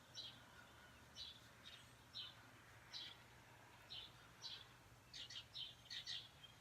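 Birds chirping faintly: short high chirps about once a second, coming quicker near the end, over a quiet background with a faint low hum.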